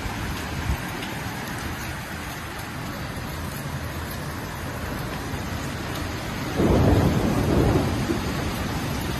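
Steady heavy rain, then about two-thirds of the way in a loud low rumble of thunder that swells suddenly and fades over a second or two.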